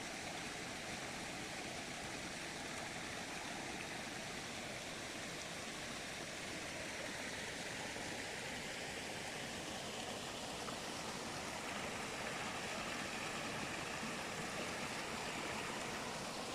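Steady rushing of spring water flowing.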